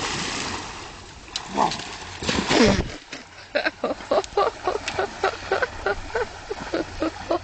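Water splashing as swimmers plunge in, fading within the first second, followed by a quick run of short voiced sounds, about four a second.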